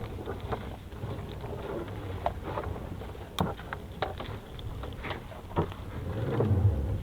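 Wind buffeting the microphone and sea water sloshing around a small fishing boat, with scattered knocks and splashes and one sharp knock about three and a half seconds in.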